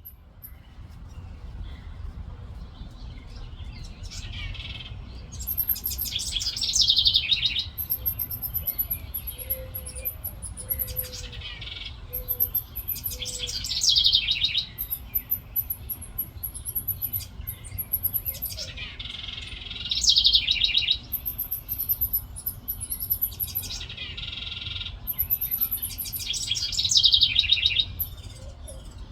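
A songbird singing the same complex phrase about four times, each a high, thin trill with quick falling notes, over a steady low rumble of background noise.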